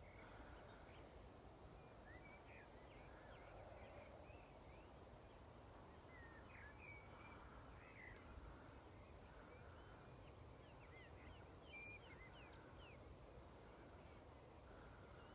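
Faint animal calls: short, high chirps with quick pitch sweeps, coming in scattered clusters over a low steady rumble.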